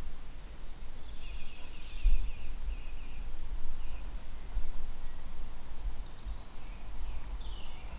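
Small birds singing, with short trills of quick notes and a falling whistled call near the end, over a low rumble of wind on the microphone.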